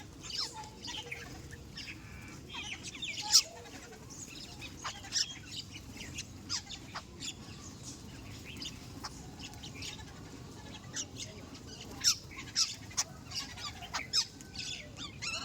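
A mixed flock of birds calling, many short sharp chirps and clucks scattered irregularly, with no single call held for long.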